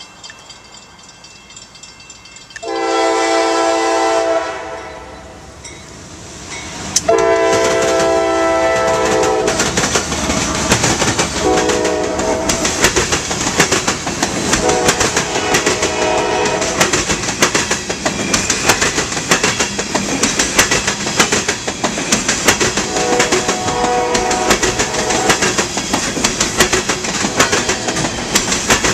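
Diesel locomotive air horn sounding several blasts, a long one about three seconds in and another about seven seconds in, then shorter ones later, as the train passes. From about seven seconds in the wheels clack steadily over the rail joints.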